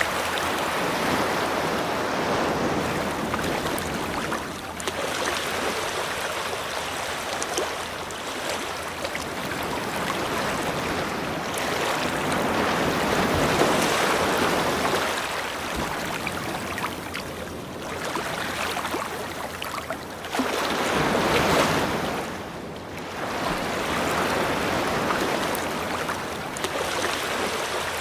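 Ocean surf washing onto a beach, a steady rush of water that swells and ebbs every few seconds as waves break and draw back.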